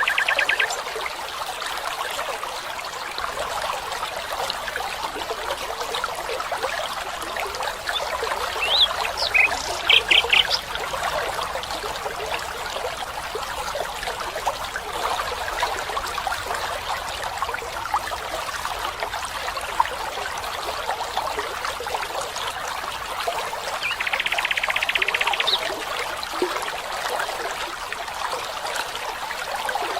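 Stream water trickling and running steadily. A few short high chirps come about nine to eleven seconds in, and a rapid high trill lasts about a second and a half near twenty-four seconds.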